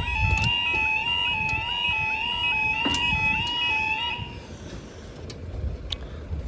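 Level crossing audible warning alarm sounding a two-tone warble, high and low pitches alternating in a steady rhythm, which cuts off about four seconds in. A low rumble runs underneath.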